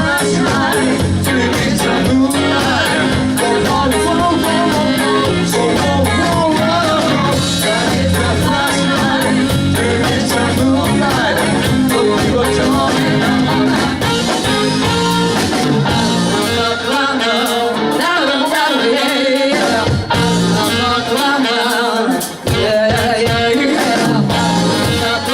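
Live band playing a song with a singer, guitar and drums; the bass and low end drop out for a stretch in the last third, leaving voice, guitar and cymbals.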